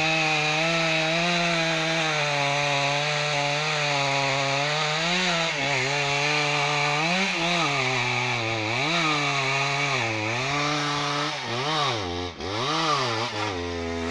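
Two-stroke chainsaw running at high revs through a cut in a tree, its pitch dipping and recovering every couple of seconds under load. It drops to a lower note near the end.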